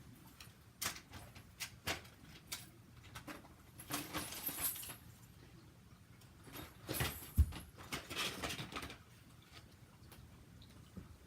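Handling of toy train track pieces: a few sharp clicks, then two spells of rustling and clattering, with one louder knock about halfway through.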